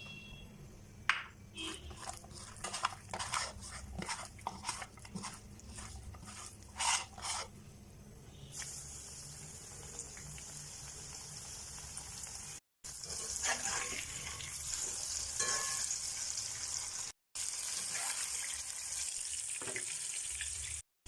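Clicks and clatter of kitchen handling, then from about nine seconds in a steady high sizzle of chicken frying in hot oil.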